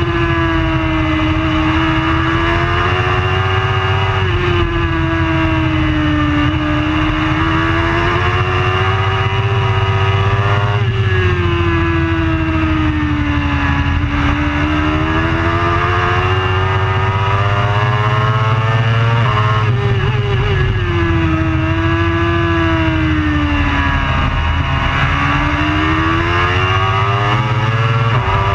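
Superbike engine at racing speed, its pitch climbing under acceleration and falling away again several times, with sudden steps in pitch between.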